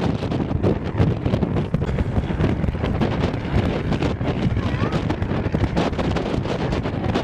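Wind buffeting the microphone: a constant low rumble with rapid, gusty flutter.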